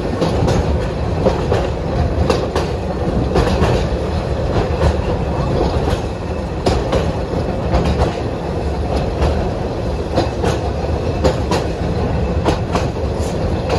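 A rail vehicle running along the track: a steady rumble with frequent, irregular clicks and knocks from the wheels on the rails.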